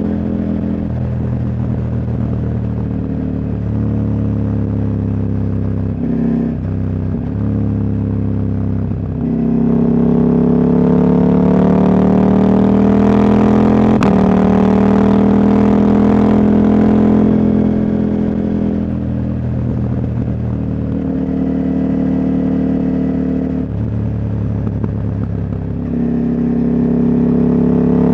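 Husqvarna Norden 901's parallel-twin engine, with its catalytic converter removed, running while the bike rides along. About ten seconds in the engine note climbs and gets louder as it pulls, then drops back a few seconds later, and climbs again near the end. A single sharp tick comes about halfway through.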